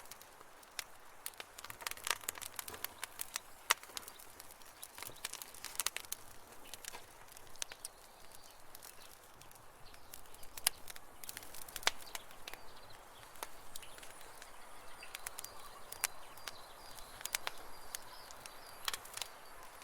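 Campfire burning with irregular crackles and sharp pops of burning wood over a soft hiss. Faint, thin high birdsong comes through in the background in the second half.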